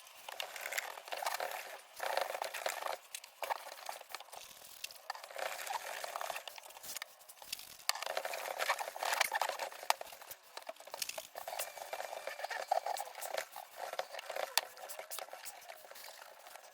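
Scrubbing and wiping a metal box-fan grill clean with cleaner: an irregular run of scratchy rubbing and rustling with small clicks.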